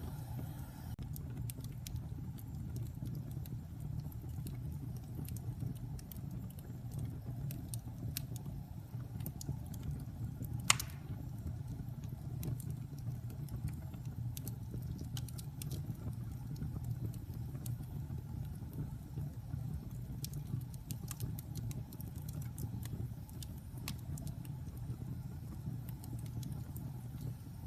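Wood fire burning in a fireplace: a steady low rumble of the flames with scattered small crackles, and one sharp pop about eleven seconds in.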